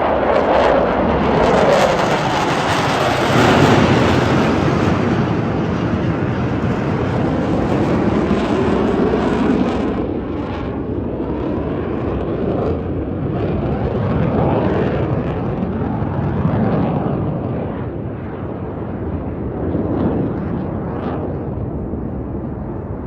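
Jet noise from Navy F/A-18 Super Hornets flying past. It is loudest and brightest for about the first ten seconds, then gradually fades as the jets move away.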